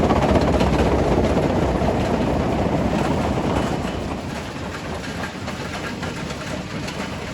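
Primary rock crusher working: a dense mechanical din of machinery and crushing rock, louder for the first four seconds, then easing off a little.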